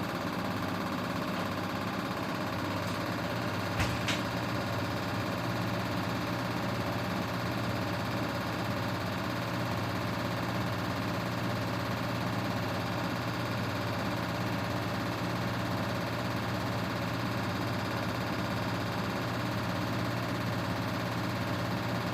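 Grundig GWM4762WE20 washing machine's drum motor running at a steady speed with an even hum, most likely during its intermediate spin before the final rinse. Two sharp clicks about four seconds in.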